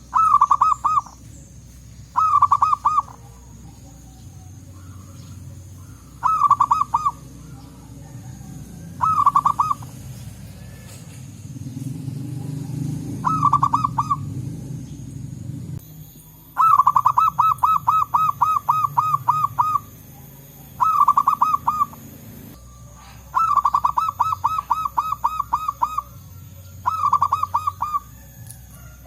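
Zebra doves (local perkutut) calling: bursts of quick, rolling cooing notes repeated every few seconds, a couple of the phrases running longer. A low rumble swells in the background about midway.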